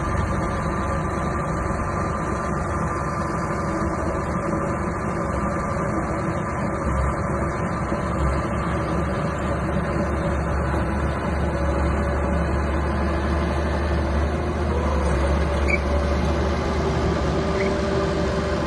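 Mini crawler bulldozer's diesel engine running steadily, with a deep engine note and a few steady whining tones over it.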